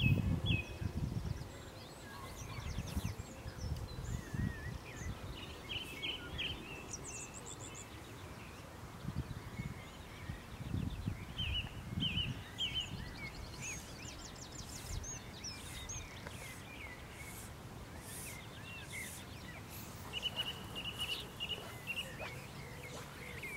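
Birds chirping and trilling in short scattered calls over a faint steady outdoor hiss, with occasional low rumbles, loudest near the start.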